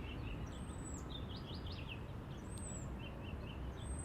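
Outdoor ambience: a steady low background rumble with small birds chirping over it. A high whistled call that drops at the end repeats about every second and a half, with shorter, lower chirps in between.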